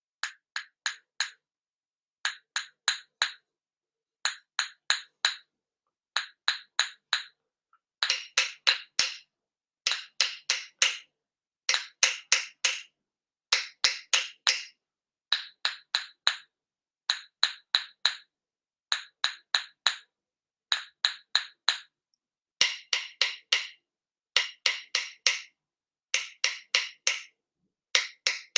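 Percussion tapped in quick groups of four or five sharp, pitched strikes, a group about every second, keeping a steady pattern throughout.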